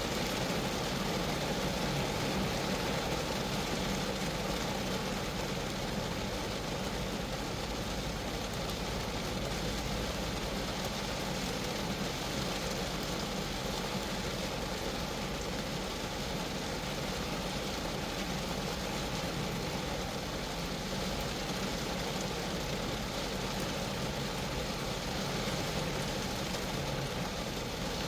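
Steady rain falling on a Geo Metro car, an even, unbroken noise that holds level throughout.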